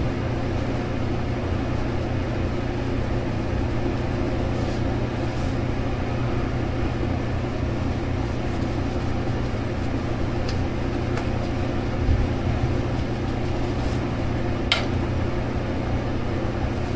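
Steady low mechanical hum, unchanging throughout, with a few faint brief ticks.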